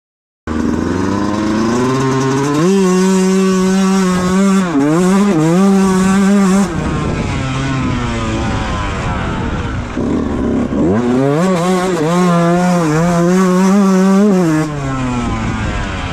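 Beta 125 two-stroke enduro motorcycle ridden hard at full throttle. The engine sound cuts in abruptly about half a second in, revs up and holds high with two quick dips, then drops off the throttle. It runs lower for a few seconds, revs up and holds high again, and drops once more near the end.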